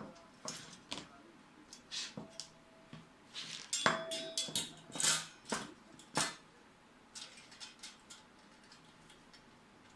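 Small metal and plastic parts of a PC power supply clicking and clinking as they are handled and fitted back together by hand: a run of irregular taps and clicks, busiest around the middle, a couple of them leaving a short metallic ring, thinning out towards the end.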